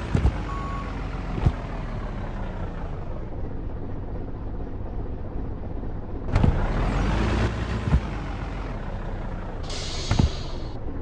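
Truck engine running with a steady low rumble, broken by several sharp knocks and two bursts of hiss, about six and ten seconds in. A short beep sounds just under a second in.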